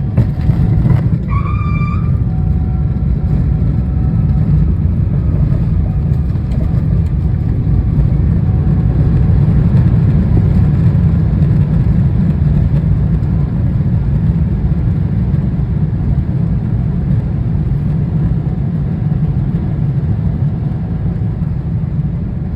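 Boeing 777-300ER touching down, heard from inside the cabin: a few sharp knocks and a brief tyre screech about a second in, typical of a crosswind landing. A heavy low rumble from the runway roll follows, swelling around ten seconds in and easing off near the end.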